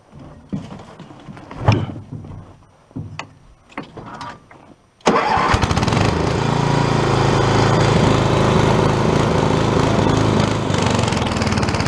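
The Quadractor's 8 hp small engine comes in abruptly about five seconds in and runs steadily and loudly. Before that, scattered knocks and clicks.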